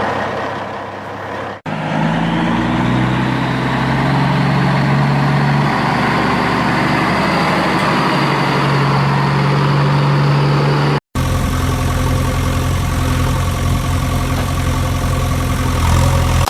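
A vehicle engine running steadily at idle, with two sudden brief dropouts, one near the start and one about two-thirds of the way through.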